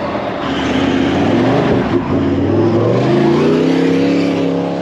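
Four-wheel-drive vehicle's engine working under load in a bog, revving up with a rising pitch in the second half and then holding steady.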